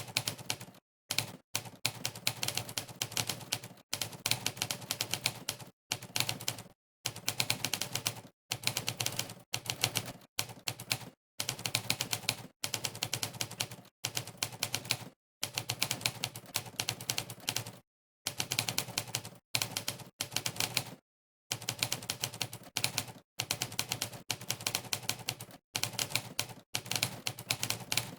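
Typewriter key-strike sound effect from the Monkeytype typing site, played on every keystroke of fast typing: rapid runs of clicks broken by short silent gaps every second or two.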